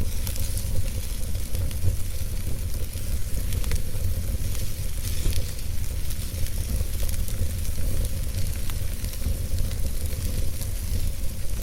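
Wood fire burning in a fireplace: a steady low rumble and hiss of flames with frequent, irregular small crackles and pops from the burning wood.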